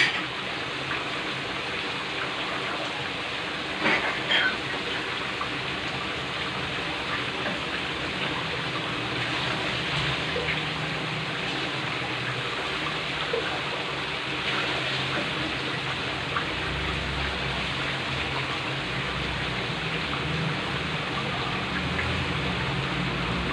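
Chicken frying in hot oil in a wok, making a steady sizzle. A couple of short sharp pops come about four seconds in.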